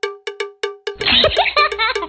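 Rapid, rhythmic strikes of a bell-like metallic tone, about five a second, on one fixed pitch. From about a second in, wavering, sliding pitched cries come in over the strikes.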